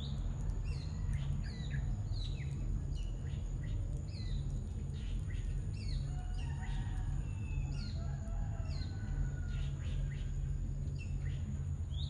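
Small birds chirping, a quick series of short, high, falling chirps repeated about every half second, with some lower warbling notes partway through, over a steady low rumble.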